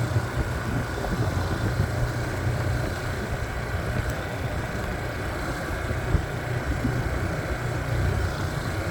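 Motorcycle engine running steadily, a low even drone.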